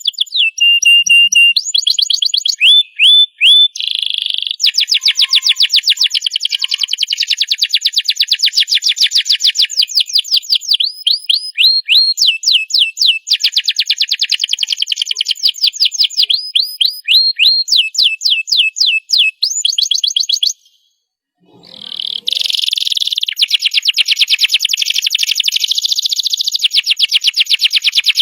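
Domestic canary singing a long song made of fast trills: each phrase is a rapid run of one repeated note, then it switches to another. The song breaks off for about a second and a half past the middle, then resumes.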